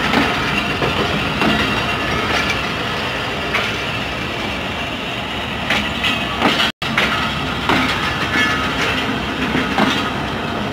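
Passenger railway coaches rolling past at close range: a steady rumble of steel wheels on rail with repeated sharp clacks as the bogies cross the rail joints. The sound cuts out completely for a split second about two-thirds of the way through.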